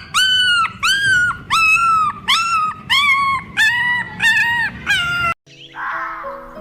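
A dog whining in a quick series of high, clear cries, about two a second. The cries cut off suddenly about five seconds in, and music with a harsher call follows near the end.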